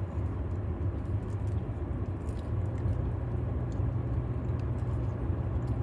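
Steady low background rumble with a few faint soft clicks.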